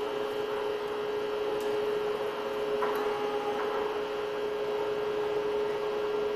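A steady electronic drone from a live experimental performance: a held mid tone with fainter higher tones over a hiss. A short cluster of higher tones sounds about three seconds in.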